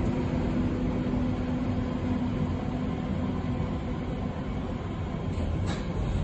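Berlin U-Bahn train running along the track with a steady rumble; a motor hum fades out in the first couple of seconds, and a few brief clicks come near the end.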